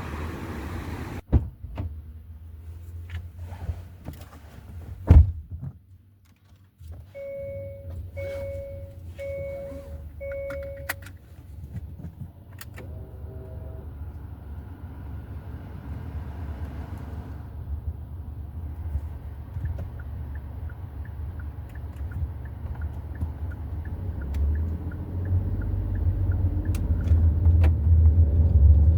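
Sounds of a Hyundai i30 N Line being readied to drive: clicks and a heavy thunk like a car door shutting about five seconds in, then four evenly spaced dashboard chime beeps and one more short chime. After that the engine runs with a low rumble and a steady ticking like a turn signal, and the rumble grows louder near the end as the car moves off.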